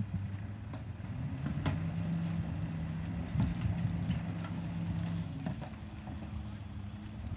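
Garbage truck engine running steadily, with scattered clanks and knocks over it.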